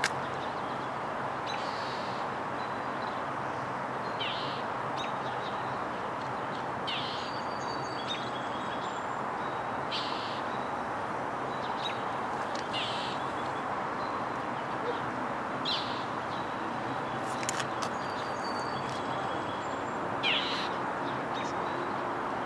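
A bird giving short, harsh calls, one every two to three seconds, over a steady background hiss.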